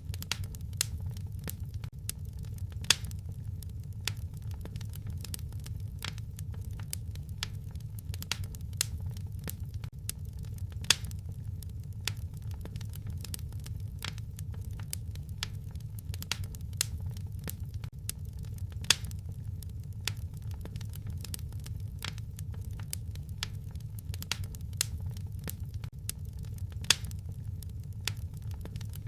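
Wood fire crackling in a fireplace: a steady low rumble of the flames under a dense run of small crackles, with a sharper pop about every eight seconds.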